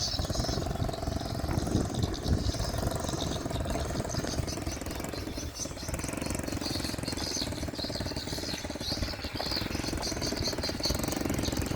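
Small motorbike engine running steadily at low speed, with birds chirping over it.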